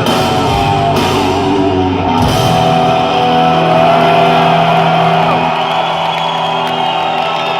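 Rock band playing live, on electric guitars and drums: a few last drum hits in the first two seconds, then a long held chord that keeps ringing.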